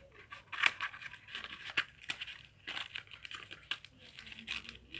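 A cardboard cigarette pack crinkling and crackling as it is handled, with irregular sharp crackles and short rustles.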